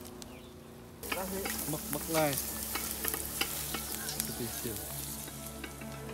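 Food sizzling and frying in a large aluminium pot on a propane camp burner, starting about a second in, with a utensil knocking and scraping against the pot as it is stirred.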